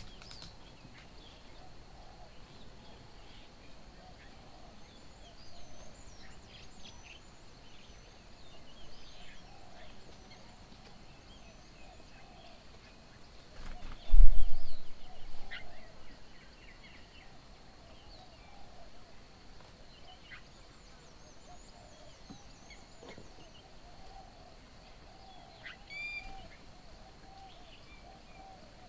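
Garden birds chirping and calling in short scattered notes over a steady lower chattering, with one loud low thump about halfway through.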